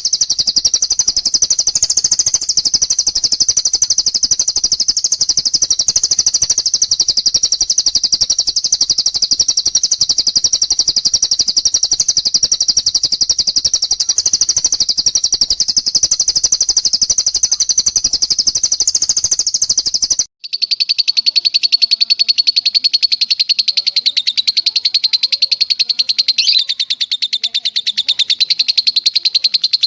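Recorded cage-bird song: an unbroken, very rapid high-pitched trill. About two-thirds of the way through it cuts out for an instant and a different, slightly lower rapid trill takes over.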